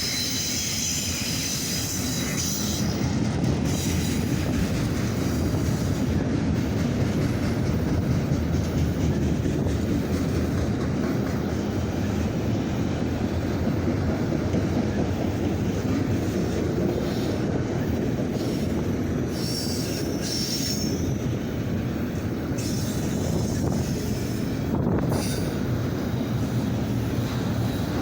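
Freight train of autorack cars rolling past: a steady rumble of steel wheels on the rails, with high-pitched wheel squeal near the start and again around twenty seconds in.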